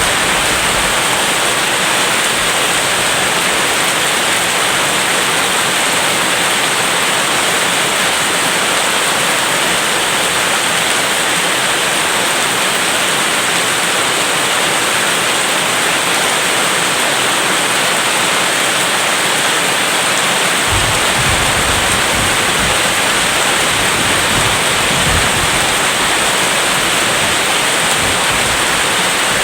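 Steady, heavy rain hissing without a break. About two-thirds of the way through a low, uneven rumble of distant thunder joins it and runs on.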